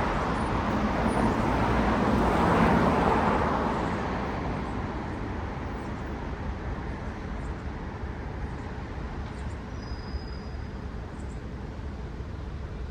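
A car passing by on a road, its tyre and engine noise swelling to a peak about two to three seconds in and then fading, leaving a steady hum of traffic.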